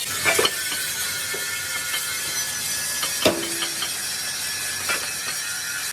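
Steady hiss of metalworking machinery with a few sharp knocks of steel, the loudest about three seconds in.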